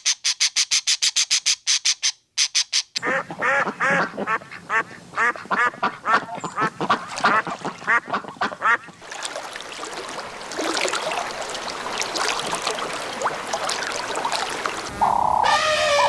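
Ducks quacking in a fast run of repeated calls, following about three seconds of rapid, evenly spaced high-pitched pulses. Near the end a different, drawn-out pitched call starts.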